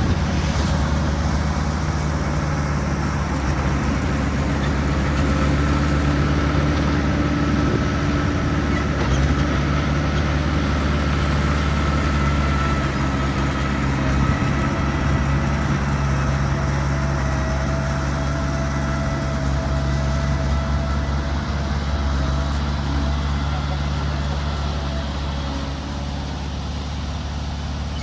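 Heavy diesel engine of earthmoving equipment running steadily, with a faint higher whine over the engine sound.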